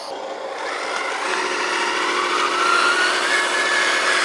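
A 1/14-scale RC hydraulic dozer running: a mechanical whine, growing louder, that rises in pitch about two seconds in and then holds steady.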